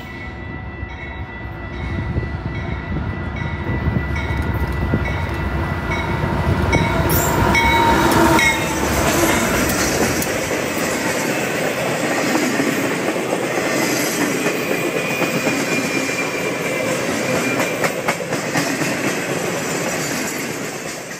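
Full-size freight train passing, loudest about seven to eight seconds in, then a steady rolling clatter of cars going by that eases off near the end.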